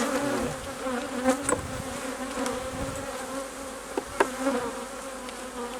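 Honey bees buzzing in a steady hum around an opened hive. A few light knocks sound about a second in and again around four seconds in.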